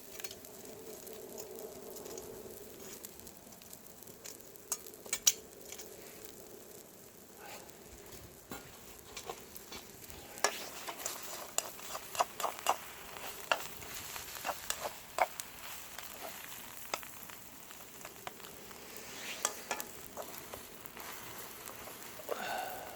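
Egg and green-onion batter sizzling in an oiled frying pan over a wood fire, with scattered sharp pops and crackles that come thickest about halfway through.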